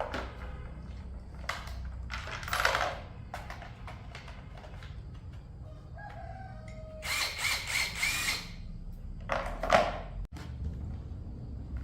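A rooster crowing once, about seven seconds in, over scattered knocks and scrapes of hand tools on metal and a steady low hum.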